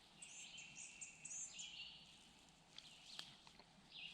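Faint woodland songbirds chirping and trilling, with a few soft clicks about three seconds in.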